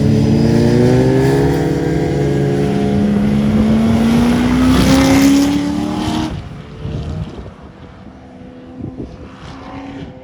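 A vehicle engine accelerating hard, its pitch rising steadily and loud for about six seconds. It then falls away abruptly, leaving a fainter engine sound.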